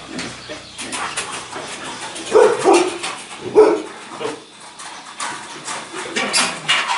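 A dog barking in short bursts with some whimpering, the loudest barks about two and a half and three and a half seconds in, and another near the end.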